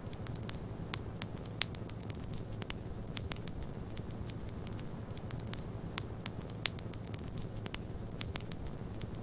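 Fireplace wood fire crackling, with irregular sharp pops, a few of them louder, over a steady low rumble of snowstorm wind.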